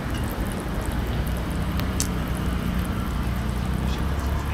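Roti frying in oil on a flat iron griddle: a steady sizzle over a low steady rumble, with one sharp click about two seconds in.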